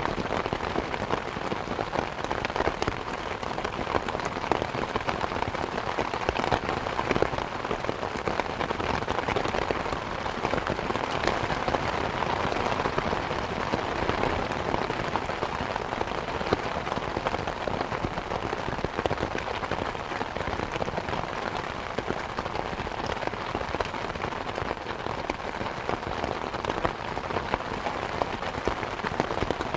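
Steady, dense rainfall, with many individual drops ticking on surfaces close by over a constant wash of rain.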